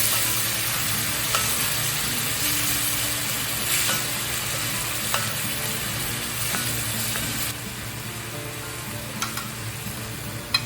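Food sizzling as it fries in olive oil in a heavy skillet, a steady hiss broken by a few sharp clicks. The sizzle drops noticeably in level about seven and a half seconds in.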